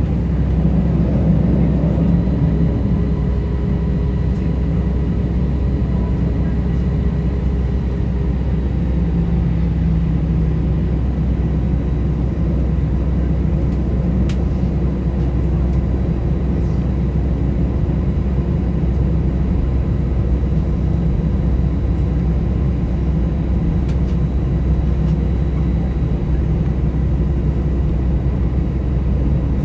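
Steady, loud low rumble of an Airbus A320's engines and airflow heard from inside the passenger cabin, with a few faint steady whines above it.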